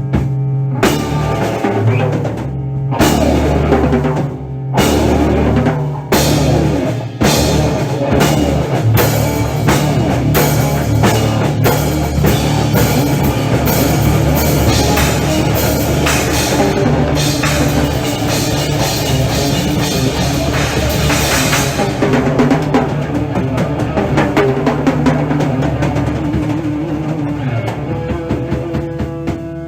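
Heavy metal drum solo on a full drum kit. A few heavy separate hits open it, then it turns into a dense run of fast strikes with cymbals washing over them. Near the end it thins out under a sustained ringing tone.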